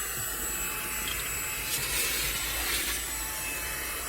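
Xiaomi Mi Vacuum Cleaner mini, a cordless handheld vacuum, running steadily with its hose attached: a steady rush of air under a thin high motor whine as it sucks at the car's interior.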